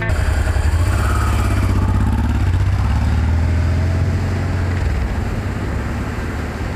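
Honda Transalp motorcycle's V-twin engine running steadily at low revs, a deep pulsing rumble.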